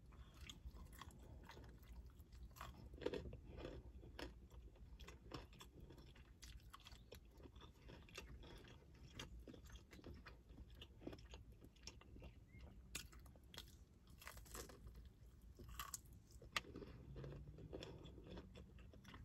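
Faint chewing of crispy fried chicken wings, with scattered small crunches and crackles of the breading between bites.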